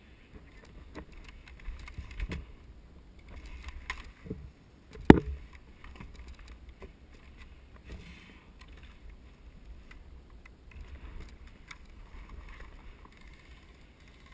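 Low rumble and rustle of a moving, handled microphone, with scattered knocks and clicks and one sharp, loud crack about five seconds in.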